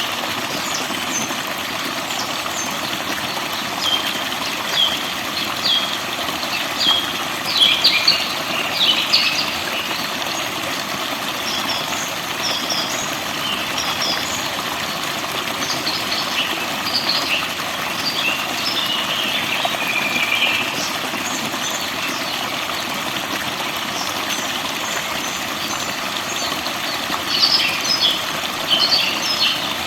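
Forest birds chirping and singing over a steady rushing noise. The birdsong is busiest about a quarter of the way in and again near the end.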